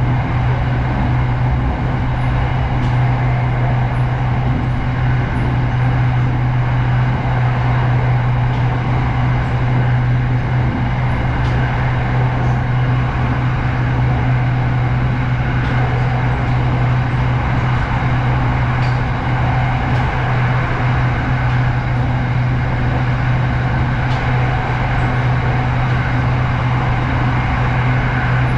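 SRT Red Line electric commuter train running at steady speed: a continuous rumble with a strong steady low hum and no change in level.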